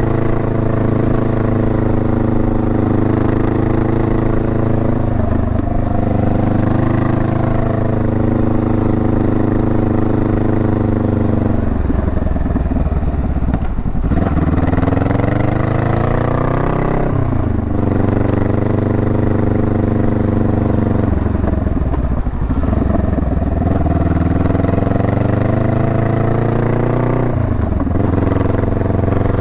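Honda Rebel 500's parallel-twin engine running under way. Its pitch falls sharply about five times and climbs back up after each fall as the throttle opens again.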